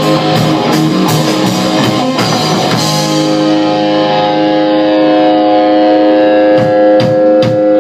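Rock music with guitar. About three seconds in, the band stops on a long held chord that rings out, and drum hits come back near the end.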